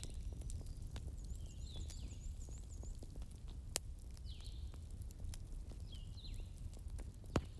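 Wood fire crackling over a low steady rumble, with many small ticks and two sharper pops, one a little past the middle and one near the end. Short, high, falling chirps recur every second or two over the fire.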